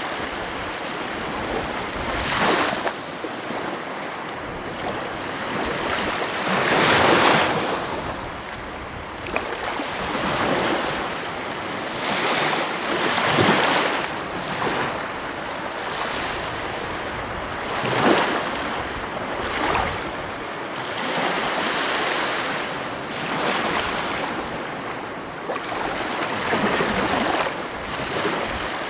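Heavy ocean waves breaking on the coast: a steady wash of surf with a louder surge of a breaking wave every four to six seconds.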